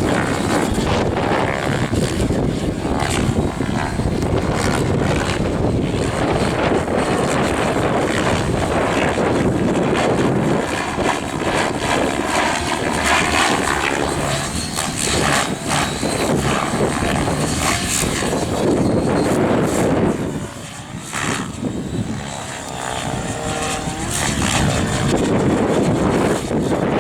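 Align 700E electric RC helicopter flying 3D aerobatics: its main rotor blades whooshing and chopping, the sound swelling and fading as it manoeuvres, dipping briefly about two-thirds of the way through.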